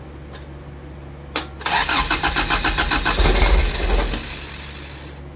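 Toyota 4A-GE 1.6-litre twin-cam 16-valve four-cylinder being started for the first time after an engine swap: a click, then the starter cranking it over in an even beat. It catches on a shot of starting fluid, with no fuel system connected, and runs for about a second before dying away.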